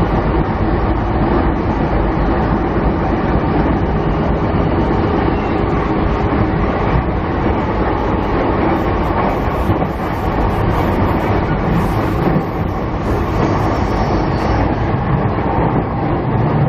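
Interior running noise of a JR 209 series 500 electric train car travelling at steady speed: a continuous rumble of wheels on rail and running gear, with a faint steady hum.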